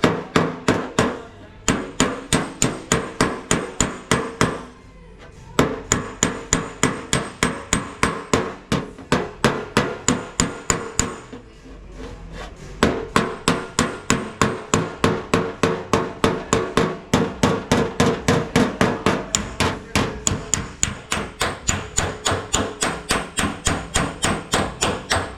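Hammer striking car-body sheet metal in quick, even blows, about five a second, each with a metallic ring, in three long runs broken by brief pauses.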